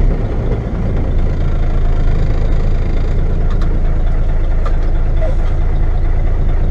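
Engine of a Mack B61 dump truck running steadily with a low hum.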